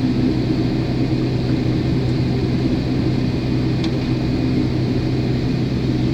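Steady low rumble with a constant low hum inside the passenger cabin of a Boeing 777 taxiing after landing.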